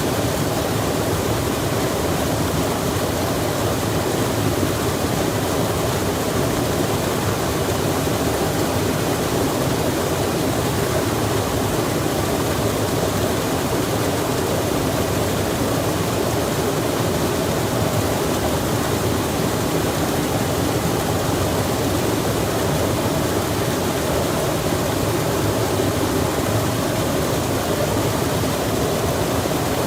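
Rain falling beside a flowing stream: a steady, even rush of water that does not change.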